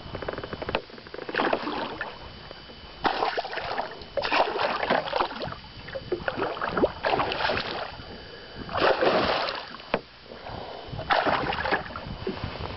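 Water splashing and sloshing beside a small boat in repeated noisy bursts, about one every one and a half to two seconds.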